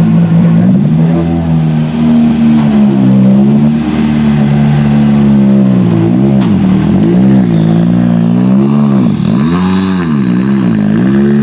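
Rally car engine revving hard, the pitch repeatedly dropping and climbing again as the driver lifts off and changes gear, with a deep dip about two-thirds of the way through.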